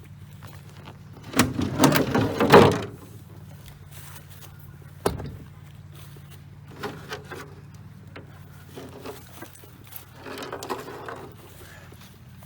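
Jet ski seat being unlatched and lifted off the hull: a burst of loud clunks and scraping about a second and a half in, a sharp knock near five seconds, then lighter clatters. A low steady hum sits underneath.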